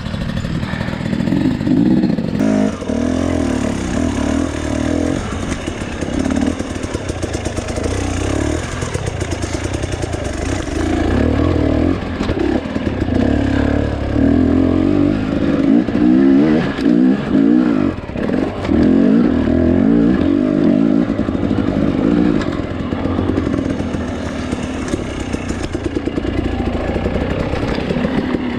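Two-stroke dirt bike engine revving up and down unevenly as it is ridden slowly over technical ground, with clatter mixed in.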